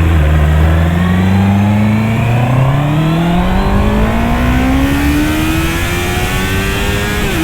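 Honda CB650R's inline-four engine accelerating hard in one gear, its pitch rising steadily for about seven seconds, then dropping sharply near the end at an upshift. Wind noise builds as speed rises.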